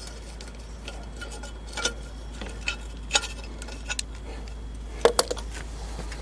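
Scattered metallic clinks and taps of tools and parts being handled on a lawn mower, with the sharpest pair of clicks about five seconds in, over a steady low hum.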